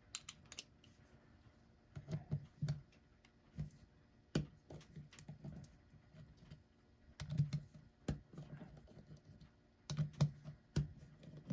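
Irregular light clicks and taps of a small hand tool on the little nuts holding the gear-train plates on an electric clock motor as they are loosened.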